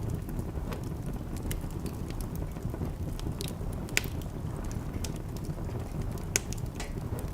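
Wood fire crackling in a fireplace: a steady low rumble with scattered sharp pops, two louder ones about four and six and a half seconds in.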